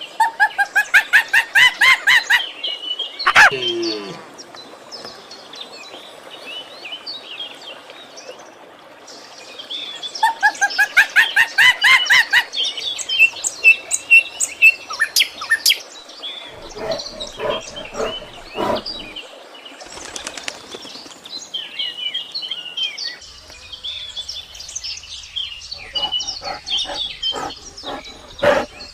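Birds calling and chirping, with two loud bursts of rapid repeated notes about ten seconds apart and scattered chirps between them.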